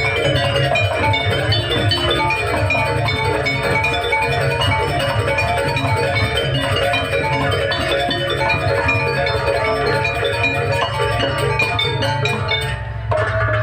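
Banyuwangi jaranan gamelan music played live: bronze metallophones and gongs ringing in fast, busy note patterns over continuous drumming. The texture thins briefly near the end, then comes back in.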